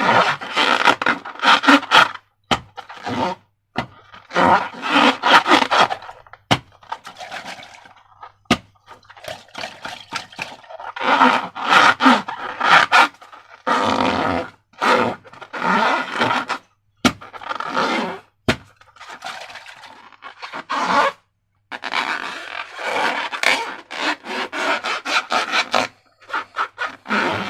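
Slime being worked by hand: sticky, crackling scraping and squelching in repeated bursts of a second or two, with short pauses between.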